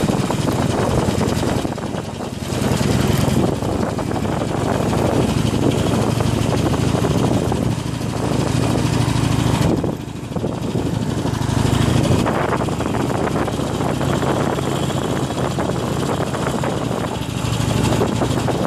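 Harley-Davidson Iron 883N's air-cooled 883 cc V-twin running at low speed on a rough off-road track, with the engine note easing off briefly about two seconds in and again about ten seconds in.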